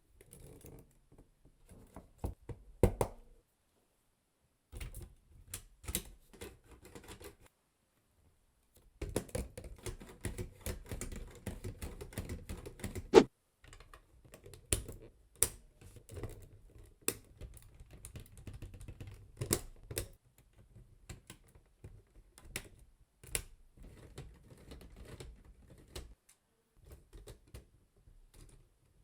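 Lego Technic plastic parts being handled and snapped together: irregular small clicks and short rattling runs, broken by brief pauses.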